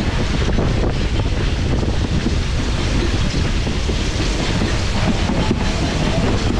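Excursion train's passenger car rolling along the track: a steady rumble of wheels on the rails.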